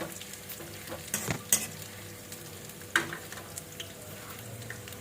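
Dried bird's eye chillies frying in hot mustard oil in a kadai, a steady low sizzle, with a spatula knocking and scraping against the pan a few times, sharpest about three seconds in.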